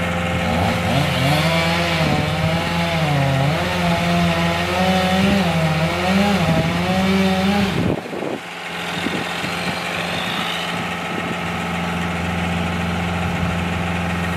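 Chainsaw cutting wood, its engine pitch wavering up and down under load, then cutting off sharply about eight seconds in. A steady engine idles underneath throughout and carries on after the saw stops.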